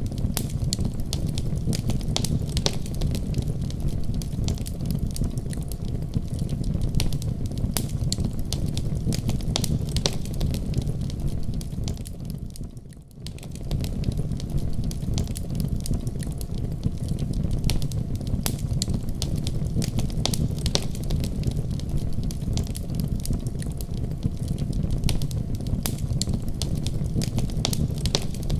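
Wood fire crackling in a fireplace: frequent sharp pops and snaps over a low steady rumble of burning. The sound fades down briefly about halfway through and comes straight back.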